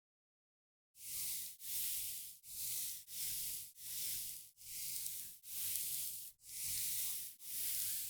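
Soft, hissy rubbing or brushing strokes in a steady rhythm, about one stroke every 0.8 seconds, starting after about a second of silence.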